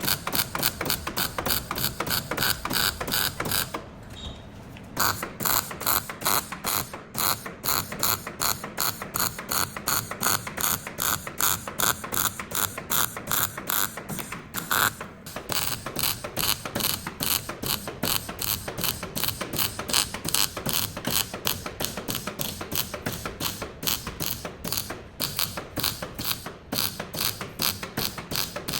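Rapid, even mechanical clicking, several clicks a second, like a ratchet being worked, with brief pauses about four seconds in, near the middle and near the end.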